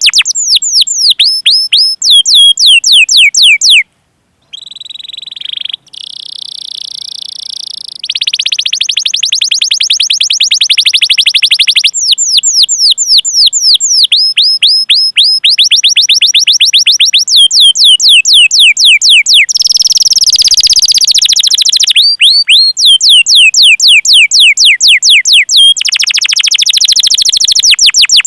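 Canary singing a repeated series of quick falling 'cuit cuit' whistled notes, several a second. The notes are broken by stretches of fast rolling trills, with a short pause about four seconds in.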